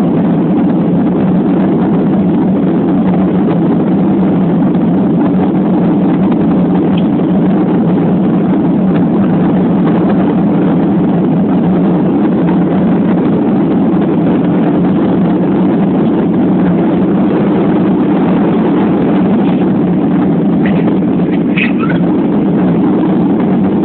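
Airliner cabin noise at takeoff: the engines and rushing air make a loud, steady noise with no change in level.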